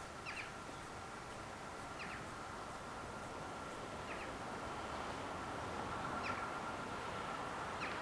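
A bird calling a short high note about every two seconds over a faint steady hum, while a low rush slowly grows louder.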